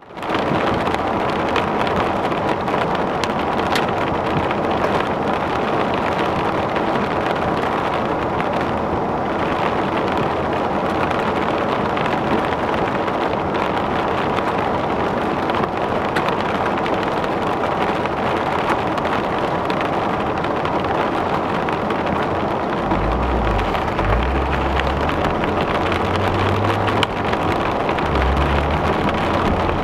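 Heavy rain drumming on a car's roof and windshield, heard from inside the car as a loud, steady hiss. Low rumbling comes in about three-quarters of the way through and runs unevenly to the end.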